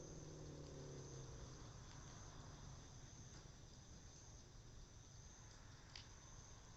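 Faint, steady chorus of insects singing at dusk, with a few soft crackles from the burning cedar wood, the clearest about six seconds in. A low hum fades out over the first two seconds.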